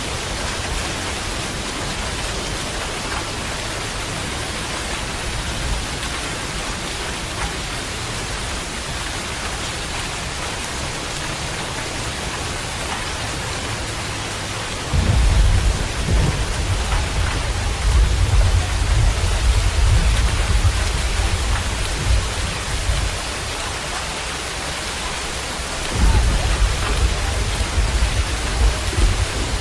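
Steady rain falling, an even hiss. About halfway through a low rumble of thunder comes in and runs for several seconds, and another rumble starts near the end.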